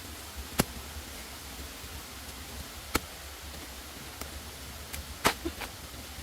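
A few sharp knocks at irregular intervals, the loudest about five seconds in, over a steady hiss and low hum.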